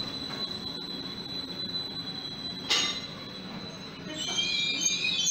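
Greater Anglia Stadler FLIRT train running past with a rolling rumble and a steady high whine. It cuts off abruptly a little past halfway, and a second FLIRT takes over, with a cluster of high whining tones that builds up near the end.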